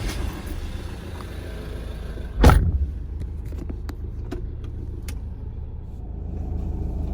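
Ute running: a steady low rumble of engine and road, with one loud thump about two and a half seconds in and a few light clicks.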